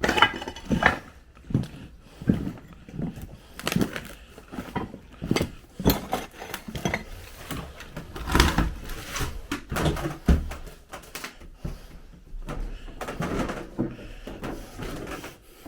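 Irregular knocks, scuffs and clatters of footsteps and handling over a debris-strewn floor and through doors, in a small room with a bare, echoing sound.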